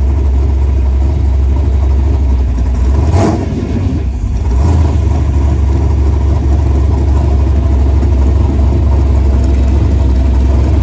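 V8 engine of an LS-swapped Chevrolet El Camino running steadily, with a brief change and a short dip in level about three to four seconds in.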